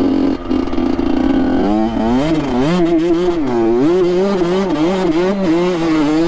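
Honda CR85 two-stroke dirt bike engine running at high revs. It holds one steady note, then from about a second and a half in the revs surge up and down over and over as the throttle is worked and the rear wheel slips in snow and slush.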